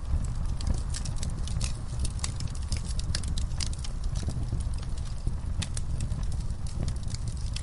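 Campfire burning: a steady low rumble of the flames with frequent, irregular sharp crackles and pops of burning wood.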